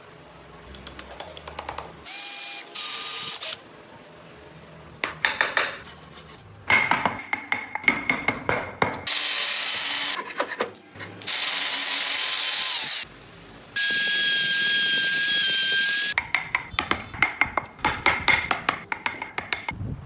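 A power tool such as a drill runs in several bursts of about two seconds each, each with a steady whine, cut between runs of rapid sharp clicks and taps from tool work on wood.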